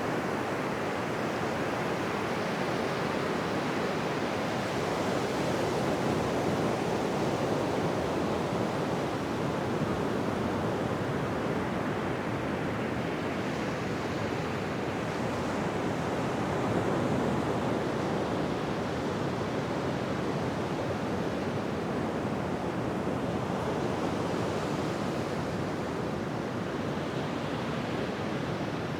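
Ocean surf washing on a beach, a steady rush of waves that swells and eases slowly every several seconds.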